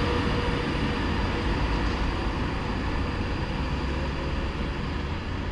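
Class 390 Pendolino electric train running in the platform, a steady rumble that slowly eases, with a faint whine dying away about a second in.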